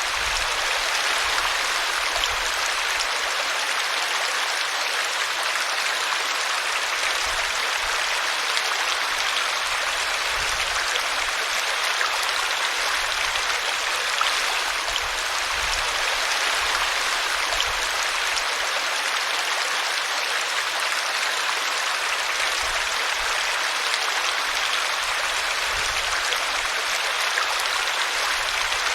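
A small brook running and splashing over a tree root: a steady rushing babble of water.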